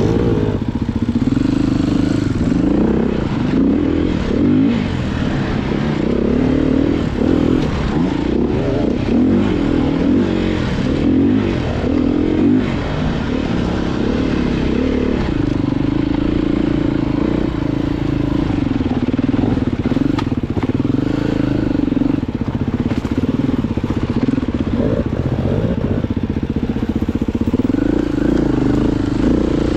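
Off-road motorcycle engine being ridden, the revs rising and falling repeatedly through the first dozen seconds, then running more steadily with a few short bursts of throttle.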